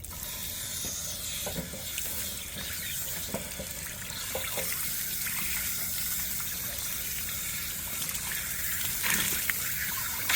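Water rushing steadily out of the drain opening of a Suburban SW12DE RV water heater tank as it is flushed of sediment, splashing a little louder near the end.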